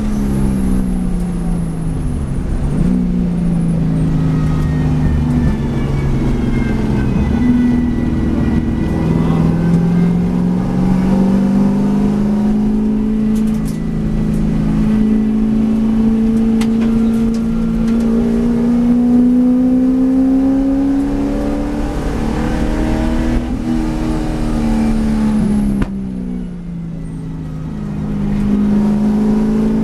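V8 race car engine running hard on the circuit, its note climbing and falling with throttle and gear changes. About 26 s in it drops away briefly as the throttle is lifted, then builds again.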